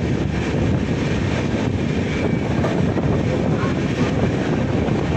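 Intercity Express passenger train running at speed, a steady loud rumble of the coach and wheels mixed with rushing air, heard from its open door.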